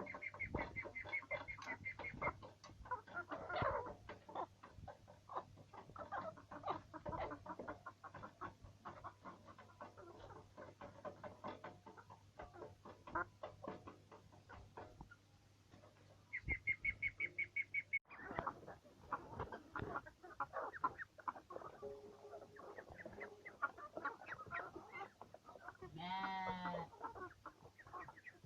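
A flock of domestic poultry clucking and calling while eating, with many short sharp clicks. A rapid high trill comes twice, and one longer rising call comes near the end.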